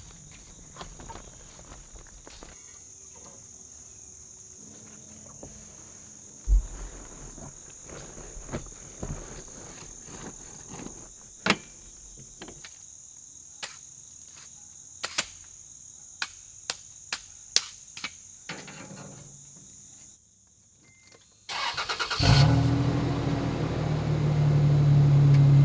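Scattered knocks and clicks as a rooftop tent is closed and latched, over a steady high-pitched hum. About 22 seconds in, a Toyota FJ Cruiser's 4.0-litre V6 starts suddenly and keeps running steadily.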